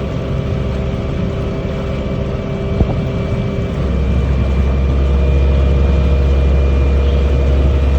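Amphibious duck boat's engine running steadily while cruising on the water. About four seconds in, the engine note changes and grows louder and deeper, then holds.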